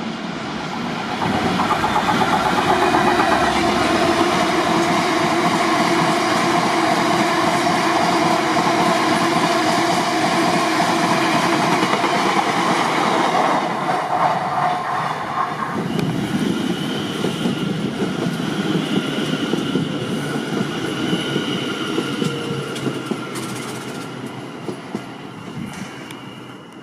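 A train running past on the line, its wheels on the rails loud from about a second in. About halfway through the sound changes and turns quieter, with faint steady whines, and it fades toward the end as the train draws away.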